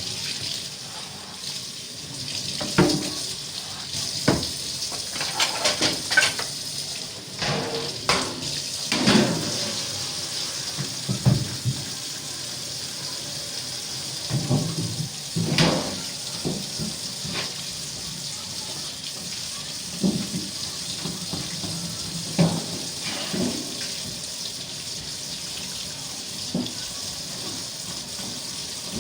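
Water running steadily from a tap into a sink, with scattered knocks and clatter of things being handled in it.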